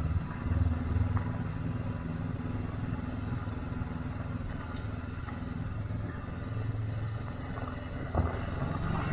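Honda CB500X parallel-twin engine running at low revs as the motorcycle rolls slowly, a steady low hum. A short knock about eight seconds in.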